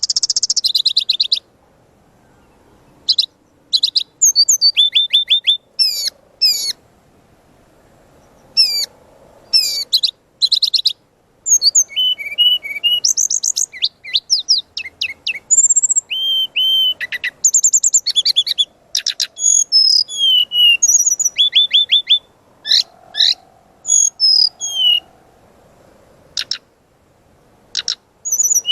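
Caged songbird singing a lively, varied song used as a training recording for other birds: quick high chirps, trills and gliding whistles in short bursts with brief pauses between them, mixed with mimicked calls.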